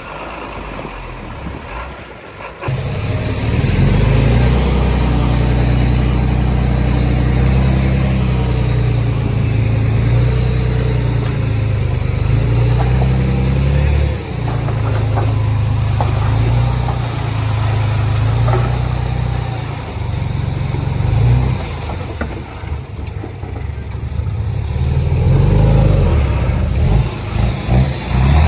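Heavy diesel engine running and revving, its low drone jumping louder about two and a half seconds in and shifting in pitch several times.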